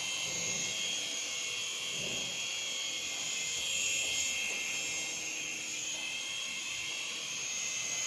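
Small electric motors and propellers of an infrared remote-control toy airplane whining steadily in flight, high-pitched, with the pitch drifting slightly.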